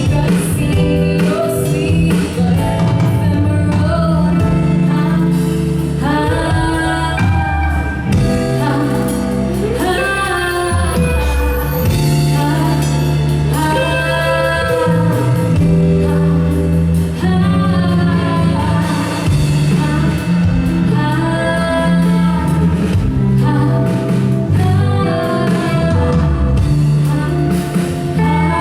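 Live band playing a song, a singer's voice leading over guitar, bass and drums.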